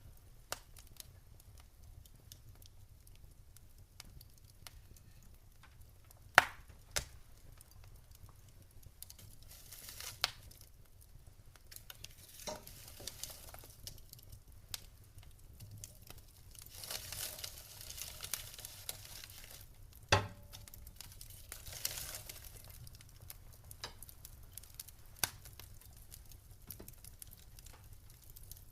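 Wood fire in a fireplace crackling: scattered sharp pops and snaps, the loudest two about six and twenty seconds in, with stretches of soft hissing between them.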